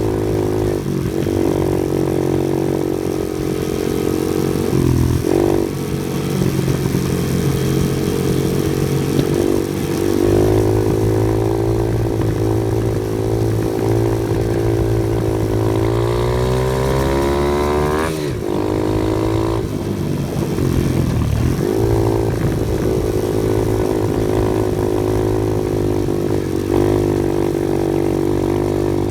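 Off-road vehicle engine running under changing load. The revs climb for a couple of seconds past the middle, then drop off sharply, with a few shorter dips along the way.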